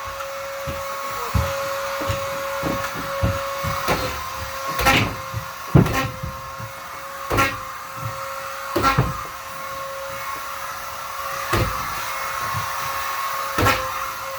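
Vacuum cleaner running with a steady motor whine, broken by irregular knocks and clatters.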